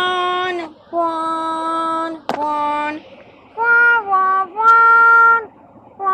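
Horn of a FEVE 1650-series diesel locomotive sounding a string of about five blasts, each about a second long. The blasts shift between a lower and a higher note, some dropping in pitch as they end.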